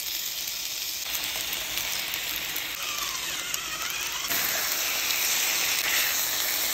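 Ravioli and leafy greens sizzling in oil in a hot cast-iron skillet, a steady hiss that gets louder about a second in and again around four seconds in.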